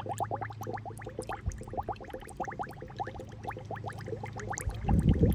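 Water bubbling: a quick, steady stream of small bubbles, each a short blip rising in pitch. Under it runs a low steady hum that stops shortly before a louder, deeper gurgle about five seconds in.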